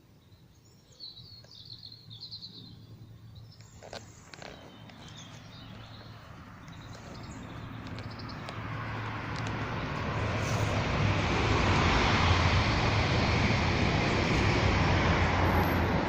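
Birds chirping faintly for the first few seconds, then the noise of a motor vehicle drawing near, rising steadily from about six seconds in and staying loud near the end.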